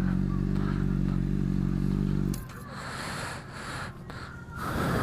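Motorcycle engine idling steadily, then shut off abruptly a little over two seconds in, leaving faint rustling and light knocks.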